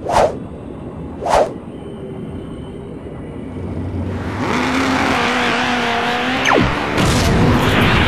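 Two quick whooshes about a second apart, then engine-like noise that builds and grows louder through the second half, carrying a steady held tone and a single falling whistle-like glide.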